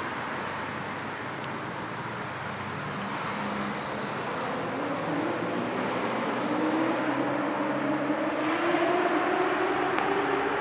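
Steady road traffic noise with tyre hiss, and a motor vehicle's engine note rising in pitch and growing louder from about halfway through, as it accelerates or approaches.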